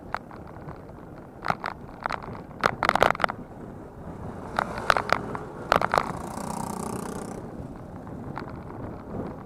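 Bicycle rattling over rough ground: irregular sharp clicks and rattles over a steady rush, with a louder swell of noise about six to seven seconds in.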